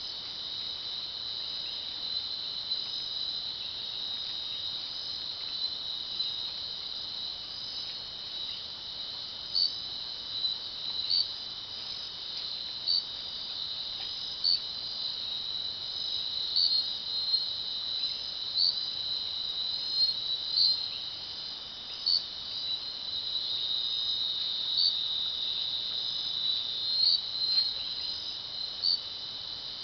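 Night-time insect chorus: a steady, high-pitched trilling of many insects, with a louder single chirp standing out every second or two from about ten seconds in.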